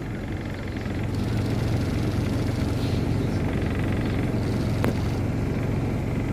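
Diesel train engine running steadily with a low hum, with one sharp click a little before five seconds in.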